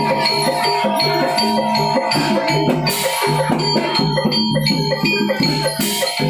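Javanese gamelan music for a barong dance: fast repeating patterns on bronze metallophones over held gong tones and drumming, with a rattling shaker-like sound. Two short crashes come about three seconds in and again near the end.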